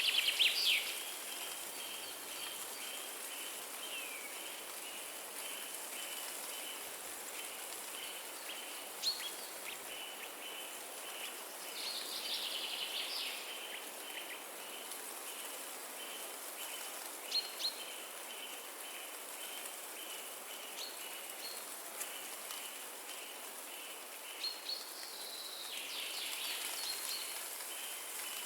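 Wind moving through forest trees as a steady, even hiss, with birds singing over it: a run of short high notes repeated at an even pace, and busier chirping phrases three times, near the start, about midway and near the end. A few sharp clicks.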